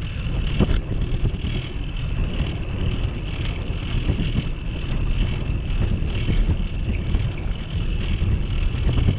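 Wind rumbling on the microphone of a bicycle-mounted camera while riding, with faint steady high bands above it.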